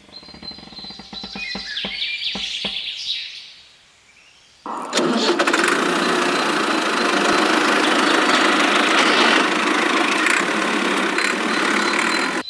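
Clicks and light rattling, then a small motor starts suddenly about four and a half seconds in and runs loud and steady before cutting off abruptly.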